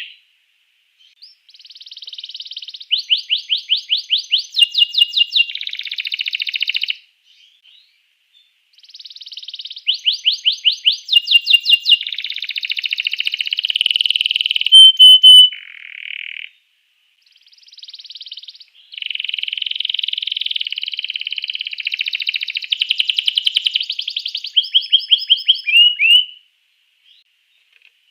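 Domestic canary singing: three long song phrases of fast repeated notes and buzzy trills, with short pauses between them.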